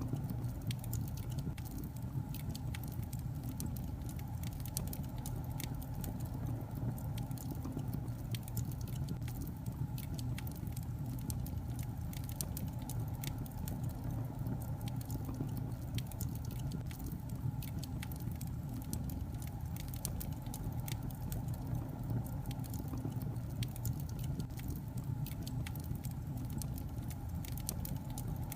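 Wood logs burning in a fireplace: a steady low rumble of the flames with frequent small, sharp crackles and pops scattered irregularly throughout.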